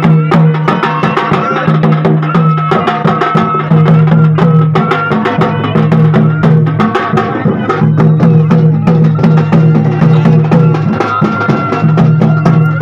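Loud traditional music driven by rapid, dense drum strokes, over a held low tone that breaks off and resumes every two to three seconds.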